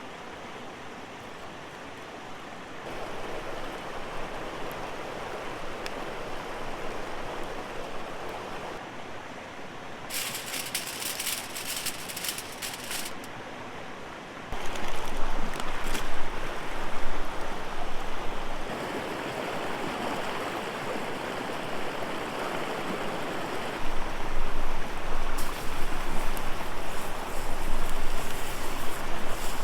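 Rushing river water, a steady wash of noise that gets abruptly louder about halfway and again near the end, with a short crackling hiss about ten seconds in.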